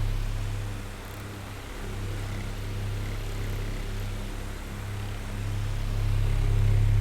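Oscillating electric fan running: a steady low motor hum with a light whir of air. It grows quieter about a second in and swells back up near the end as the head sweeps.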